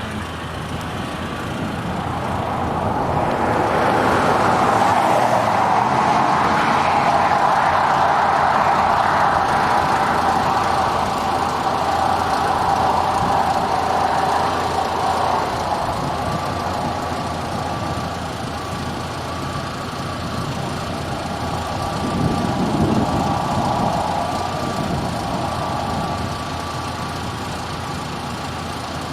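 Rushing road and engine noise inside a moving car. It swells for several seconds, then settles to a steady level.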